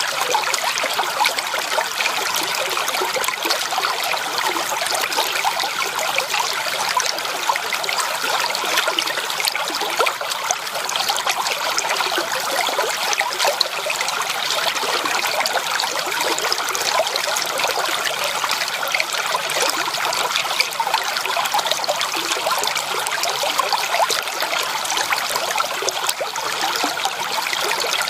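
Running water of a forest stream flowing steadily, a dense even rush with many small splashes and trickles and no music.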